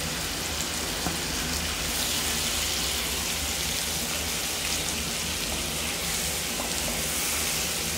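Raw prawns frying in hot oil with onions and tomatoes in a pan: a steady sizzle as they are stirred in with a wooden spatula.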